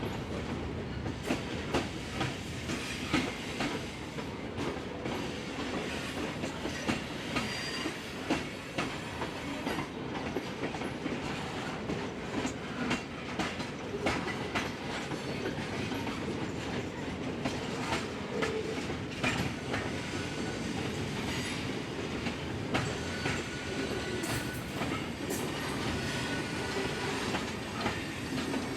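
Freight train rolling past, its wheels clicking steadily over the rail joints.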